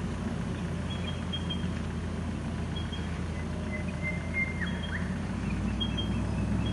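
Land Rover four-wheel drive's engine running at low, steady revs as it crawls over deep ruts in a sandy track.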